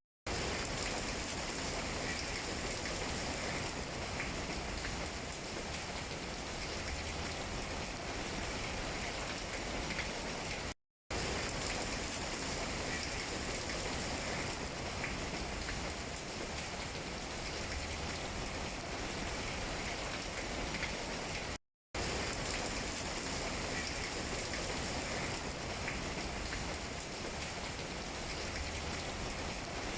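Steady rain falling on tree leaves, an even hiss of many drops. The sound cuts out completely for a fraction of a second twice, about a third and two-thirds of the way through.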